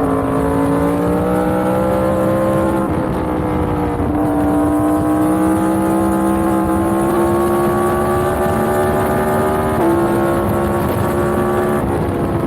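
Yamaha MT-10's crossplane inline-four engine running at speed, its pitch climbing slowly, with small dips about three seconds in and again near ten seconds.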